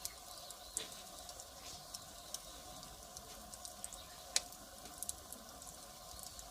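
Firewood burning, crackling: irregular sharp pops and snaps over a steady hiss, with the loudest snap a little past the middle.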